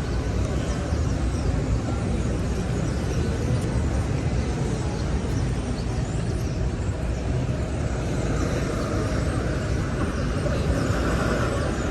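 City street traffic noise: a steady wash of vehicle engines and tyres with a low rumble, swelling slightly near the end as a vehicle passes.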